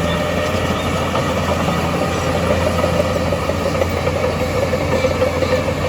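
Diesel engine of heavy earthmoving machinery running steadily with a low hum, growing a little louder after about two seconds.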